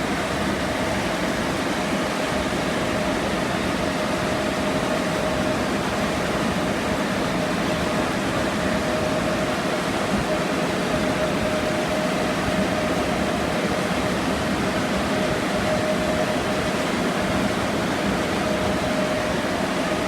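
Automatic car wash air dryer blowers running: a steady rush of air with a constant mid-pitched hum.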